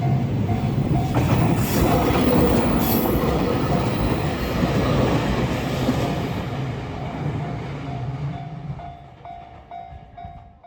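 A train passing, loudest in the first half and then fading away as it goes. Behind it a short ding repeats about three times a second.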